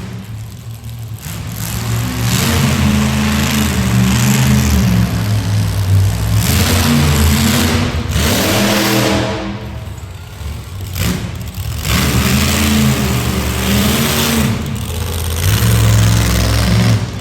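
Monster truck engine revving hard in repeated bursts of throttle, its pitch rising and falling, with short lulls between runs.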